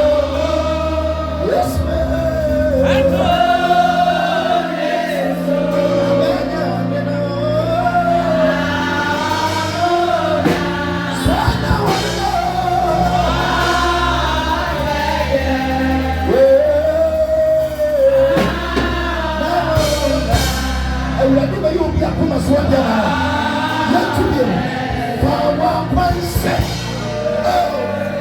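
Gospel song with sung vocals, a choir and a steady instrumental backing.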